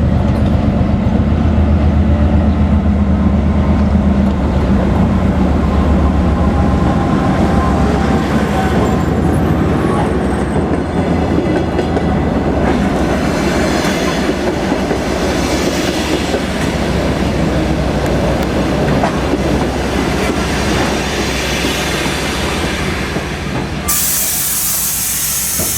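Soviet-built M62 diesel locomotive's two-stroke V12 engine running low and heavy as it goes by, followed by passenger coaches rolling past with wheels clattering over rail joints and a faint squeal. A sudden hiss of air starts near the end.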